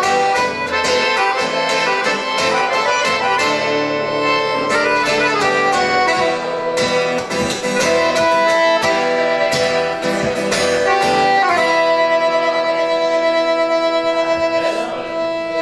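Instrumental ending of a song, played by a band without singing: a run of quick notes, then a long held closing chord with a fast wavering tremolo.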